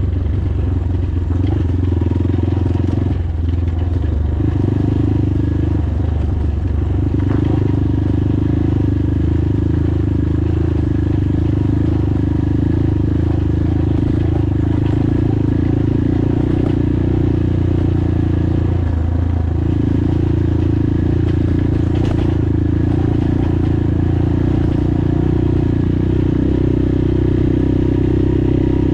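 PROGASI Super Max 250 enduro motorcycle engine running steadily while riding along at an easy, even pace.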